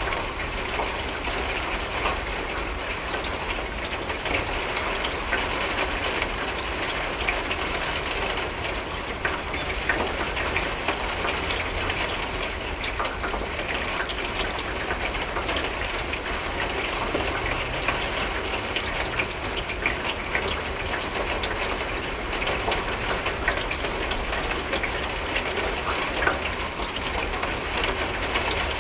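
Steady rain pattering on a window pane, a dense hiss of countless small drop ticks.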